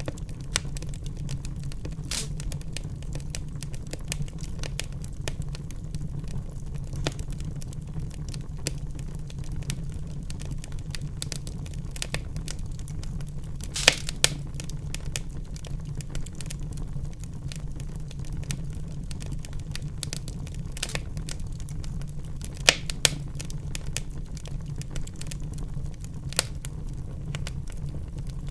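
Wood fire burning in a fireplace: a steady low rumble of flames with constant crackling and scattered sharp pops, the loudest around the middle and again near the end.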